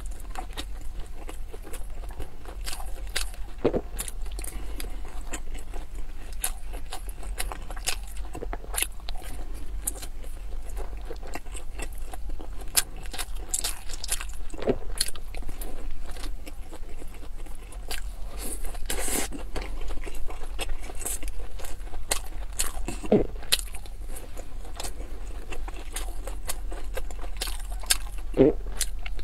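Close-miked chewing and biting of pan-fried dumplings: wet mouth sounds with many small clicks, over a low steady hum.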